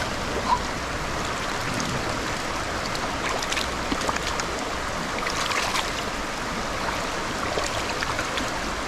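Stream water rushing and rippling steadily, with a few short splashes.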